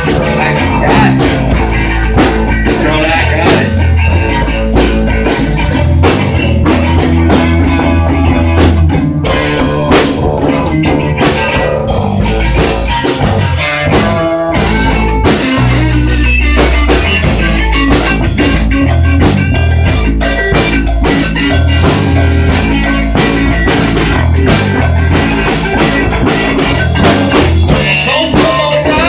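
A rock band playing live, with electric guitar and drum kit.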